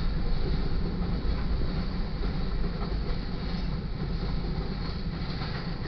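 Loaded covered hopper cars of a freight train rolling past, a steady rumble of steel wheels on the rails.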